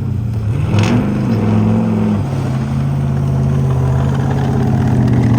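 An engine running with a steady note, revving up about a second in and easing back down a little after two seconds.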